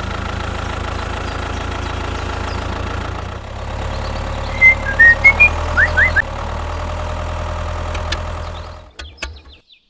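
Small engine of a homemade mini tractor running steadily, with a cluster of loud short high squeaks about halfway through. The engine sound dies away near the end.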